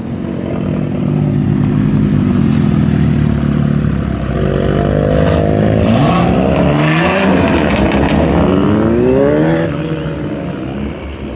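Engines running loudly, then a vehicle revving up in several rising sweeps as it accelerates hard, with the sound easing off near the end.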